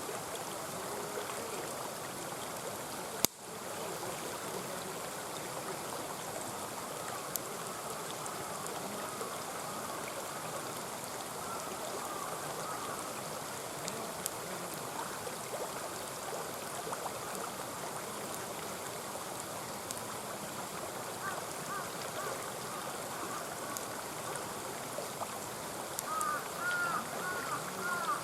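Mountain stream flowing and burbling steadily, with scattered small crackles from an open campfire and one sharp pop about three seconds in. The gurgling grows livelier near the end.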